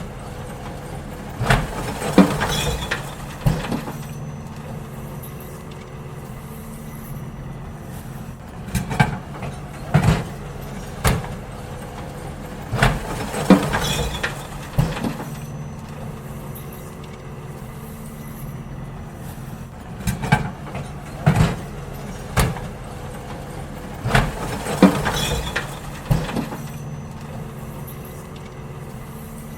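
A garbage truck's engine runs steadily while bins are emptied. Clusters of loud bangs and clatter, as bins are tipped and knocked against the hopper, come about every eleven seconds.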